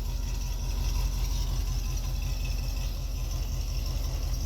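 2010 Cadillac CTS-V's supercharged 6.2-litre V8 idling steadily on E85 soon after a cold start. It is fitted with long-tube headers and an X-pipe into the stock mufflers, with the cutouts closed.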